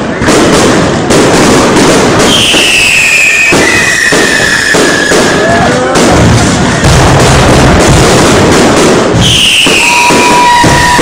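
Aerial fireworks display: a steady run of loud bursting bangs and crackling, with high whistles from whistling shells that fall slowly in pitch, once about two seconds in and again near the end.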